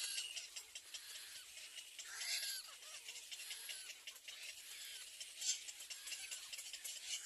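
Young birds peeping in short, high calls that come in a few separate clusters.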